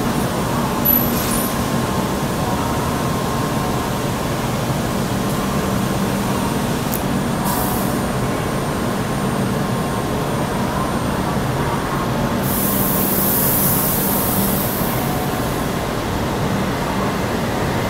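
E7 series Shinkansen pulling slowly out of a station platform: a steady electric hum from the train, with a burst of high hissing about two-thirds of the way through.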